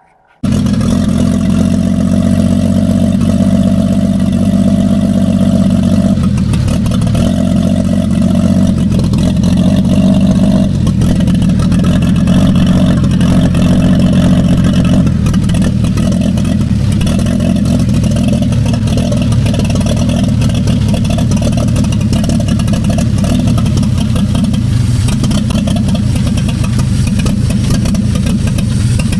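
Chevrolet truck engine running steadily, coming in suddenly at full level just after the start. Its crankcase oil is mixed with diesel fuel to flush the engine.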